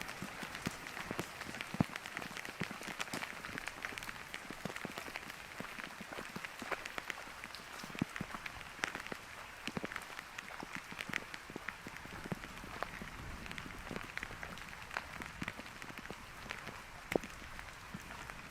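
Rain falling, with many irregular sharp drop hits over a steady hiss.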